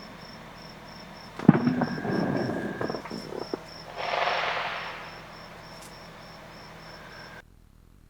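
Crickets chirping in steady, even pulses. About a second and a half in comes a sharp bang, followed by a second or so of crackling pops and then a hissing whoosh. The sound cuts off suddenly near the end.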